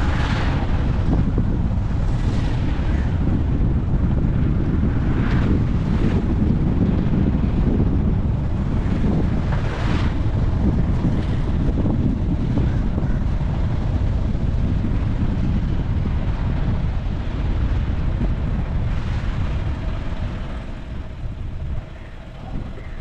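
Wind buffeting the microphone during a drive, a loud steady low rumble with a few brief hissing swells, easing off near the end.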